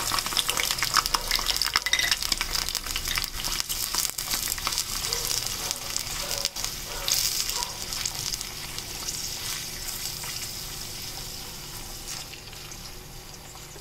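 Chicken gizzard pieces frying in hot ghee, a dense sizzle with sharp crackles as they go into the pan and are stirred. The sizzle is loudest at first and gradually dies down over the following seconds.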